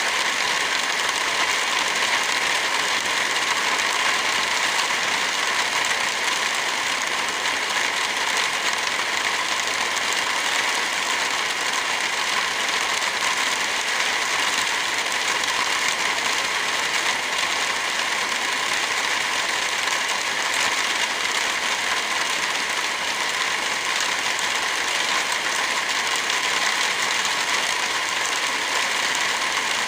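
Steady rain falling with a wood fire crackling, an even hiss with fine clicks and no change in level.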